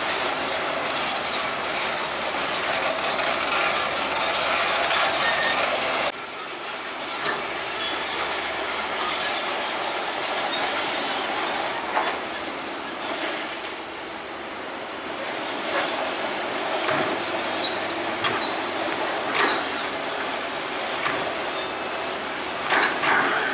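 Crawler bulldozer working: steel tracks squealing and clanking over the engine's running noise, with scattered metallic clanks. The sound drops abruptly about six seconds in.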